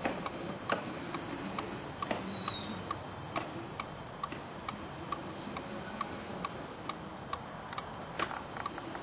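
Razor MX350 electric dirt bike running, with a steady, even ticking about three times a second.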